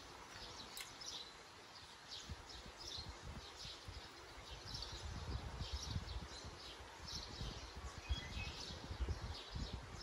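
Creekside outdoor ambience with faint, repeated short bird chirps, and a low rumble on the microphone that comes and goes in the second half.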